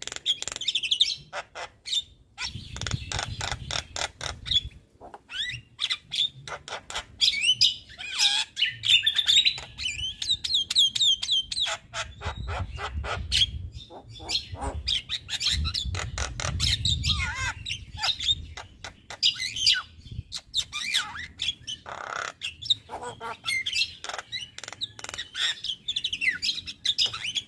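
Male Javan myna singing continuously, a rapid jumble of sharp clicks, harsh squawks and warbling whistles.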